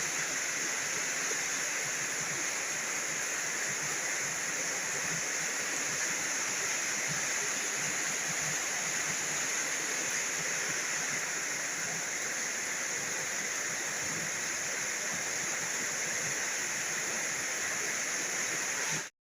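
Heavy rain falling: a steady hiss that cuts off suddenly near the end.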